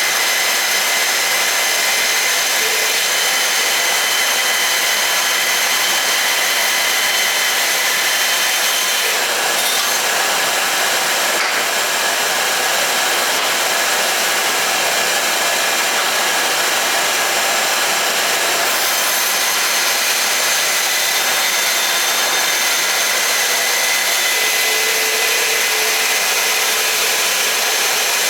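Craftsman 12-gallon shop vacuum running steadily while vacuuming: a rush of air under a high motor whine, with a few faint clicks about ten seconds in.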